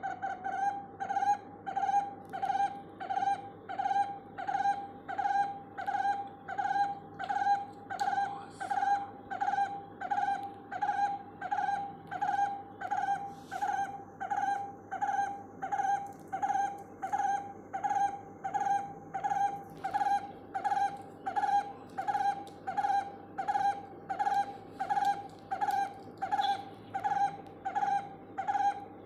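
Barbet calling: a single note repeated at a steady, unbroken pace of about one and a half a second.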